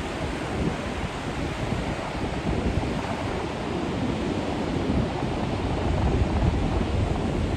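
Wind blowing across the microphone over surf washing up on a beach shore: a steady, rushing noise that rises and falls with the gusts.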